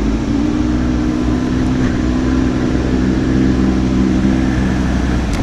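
Boat motor running steadily, dipping slightly in pitch at the start and cutting off just before the end.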